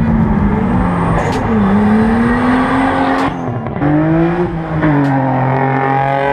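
Car engine revving, its pitch rising and falling a few times over a rough exhaust noise.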